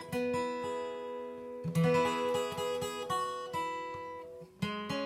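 Acoustic guitar playing on its own, picked and strummed chords ringing, with a new chord struck about two seconds in and again near the end.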